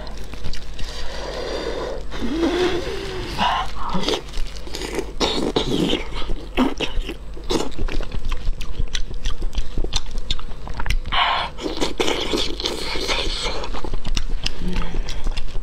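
Close-miked eating of steamed fish: wet chewing and lip-smacking with many short mouth clicks throughout.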